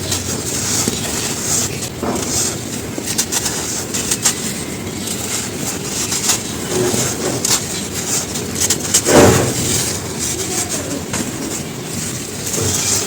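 Dry charcoal ash crumbling and crunching without pause, full of small sharp crackles, with one louder crunch about nine seconds in.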